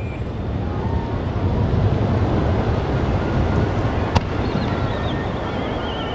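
Fireworks display: a continuous low rumble of shell bursts and their echoes, with a single sharp crack about four seconds in and a thin, wavering, falling whistle from a whistling shell in the second half.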